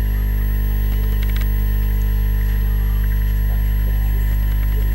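Loud, steady electrical mains hum with a ladder of overtones, with a few faint clicks a little over a second in.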